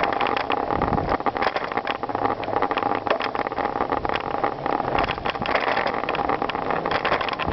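Bicycle riding over gravel: steady tyre and rolling noise with frequent small rattles and clicks from the bike.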